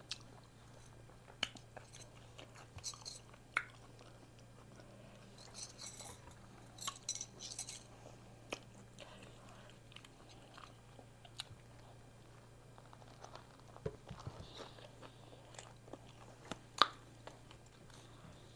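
Close-up mouth sounds of a person eating a cheddar hot link sausage in a soft bun: faint chewing with wet smacks and small clicks, a cluster of them about six to eight seconds in and one sharper click near the end. A steady low hum runs underneath.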